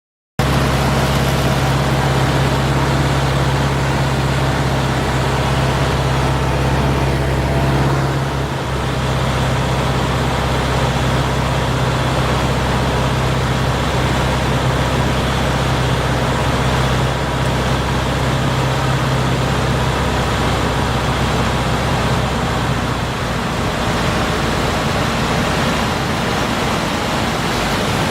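Light aircraft's Lycoming O-320 four-cylinder engine and propeller droning steadily with heavy rushing noise, with the low engine hum easing a little about eight seconds in, as on a landing approach.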